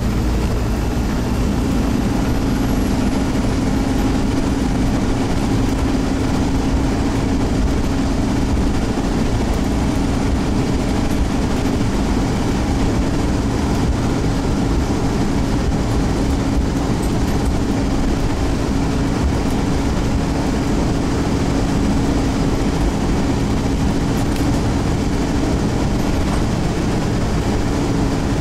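Scania OmniCity bus's diesel engine and drivetrain running under way, heard from inside the bus: a loud, steady drone holding one note, over road noise, with no gear change.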